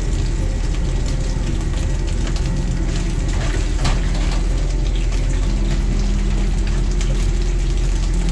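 Steady loud rush of strong wind and rain on the microphone, with a deep rumble underneath.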